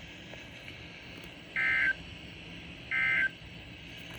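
NOAA Weather Radio SAME digital data bursts: two short, loud, buzzy two-tone warbles about a second and a half apart over radio hiss. They are the end-of-message code that closes the tornado warning broadcast.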